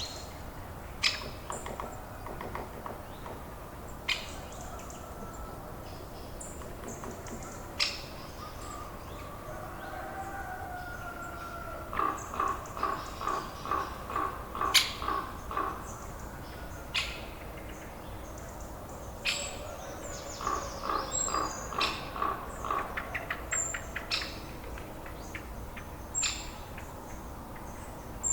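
Birds chirping over a steady outdoor hiss: scattered short, sharp high calls, and twice a run of rapid repeated calls at about four a second.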